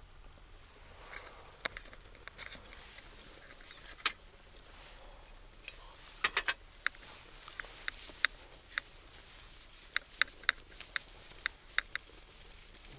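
Food grilling on a barbecue: scattered sharp pops and crackles over a faint hiss, with a loud cluster of pops about six seconds in and quicker ones near the end.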